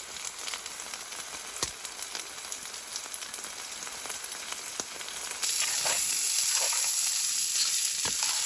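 Food frying in a pan on a backpacking alcohol stove, a steady sizzle with scattered crackles and pops. About five seconds in the sizzle suddenly gets louder and brighter.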